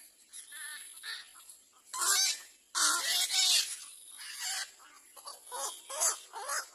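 A bird giving a series of harsh calls: two long, loud ones about two and three seconds in, followed by several shorter ones.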